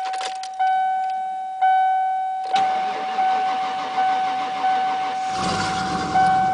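A car's warning chime dings about once a second while the starter cranks a 1994 Ford Mustang GT's 5.0-litre V8 from about two and a half seconds in. The engine catches about five seconds in and keeps running, with the chime still sounding over it; the owner says the engine is misfiring.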